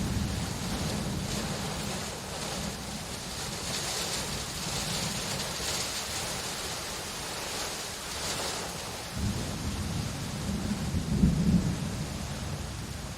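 Steady rain falling, with rolling thunder underneath. A rumble fades early on, and a second roll of thunder builds about nine seconds in, peaking a couple of seconds later as the loudest moment.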